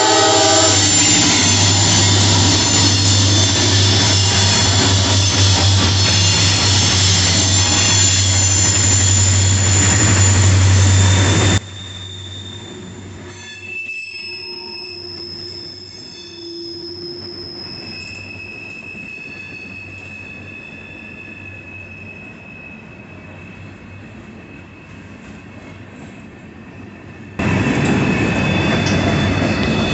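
CSX mixed freight train's cars rolling past close by: a loud, steady rumble of wheels on rail with a low hum and some high wheel squeal. About twelve seconds in the sound cuts abruptly to a much quieter stretch with a few faint high tones. Near the end it cuts back to the loud passing train.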